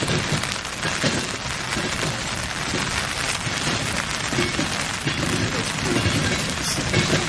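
Freight train cars rolling on the rails, a steady noisy clatter with low rumble and no pauses.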